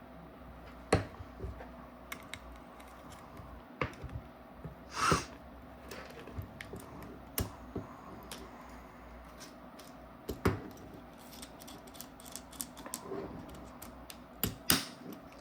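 Scattered clicks and light taps of small metal parts and hand tools being handled, with one short scrape about five seconds in, as a feed neck is fitted to a paintball marker.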